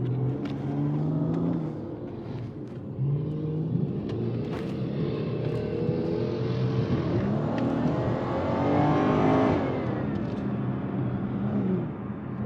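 Car engine running and revving in traffic, its pitch climbing from about seven to ten seconds in.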